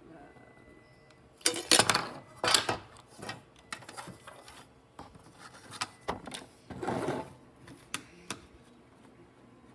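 Hands fitting a small cooling fan into the metal case of a 3D printer's power supply: irregular clatters, clicks and scrapes, loudest in two bunches about two and seven seconds in, with a couple of single ticks near the end.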